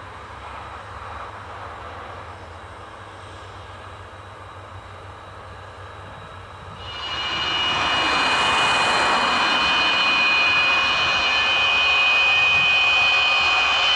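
Antonov An-124's four D-18T turbofan engines during a heavy takeoff. A distant jet rumble rises sharply about halfway through into a loud, steady roar with a high whine.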